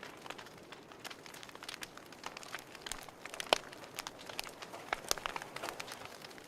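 Fireplace fire crackling: irregular pops and snaps over a soft hiss, the sharpest pop about three and a half seconds in.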